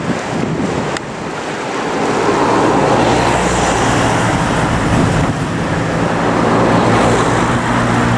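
Road traffic passing close by: tyre and engine noise swells from about two seconds in, and a steady low engine hum from about three seconds in.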